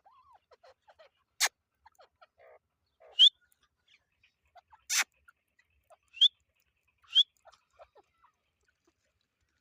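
Teetar (francolin) birds calling: soft, low chattering notes throughout, broken by a few loud, short, sharp calls, three of them quick upward chirps.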